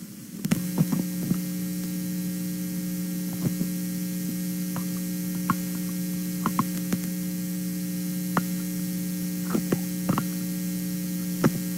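Steady electrical hum with a buzzy stack of tones from a microphone hookup, starting about half a second in, with scattered small clicks and taps of handling.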